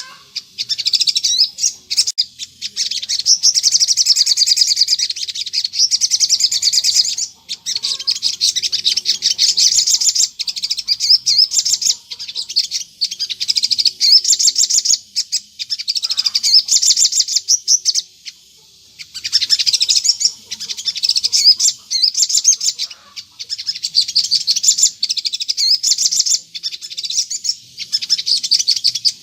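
Sogon sunbird singing long, fast, high-pitched chattering phrases of several seconds each, with short breaks between them and one longer pause about two-thirds of the way through.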